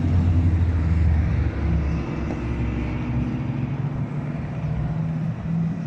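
Large truck engines running low as vehicles roll slowly past, louder for the first second and a half, then easing off a little.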